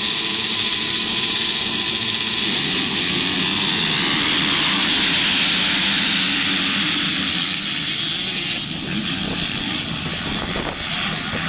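A pack of MX2 motocross bikes racing away after the start, their engines merging into one high, continuous howl. It is loudest about halfway through, then fades after about eight seconds as the field moves off.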